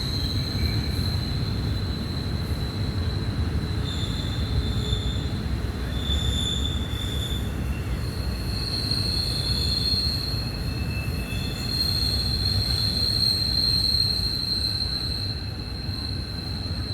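Freight train's steel wheels squealing against the rail on a tight curve: several high-pitched whistling tones overlap, fading in and out, over the low rumble of the cars rolling past.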